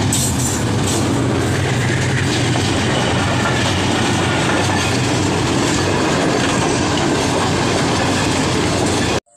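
Passenger train headed by a diesel locomotive passing close by: a loud, steady rumble of the locomotive and of the coaches' wheels running on the track, with a deep engine hum strongest in the first few seconds. It cuts off suddenly near the end.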